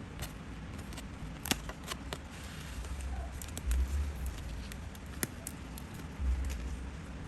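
Paper being handled during crafting: scattered small clicks and ticks, with a couple of low bumps against the work surface.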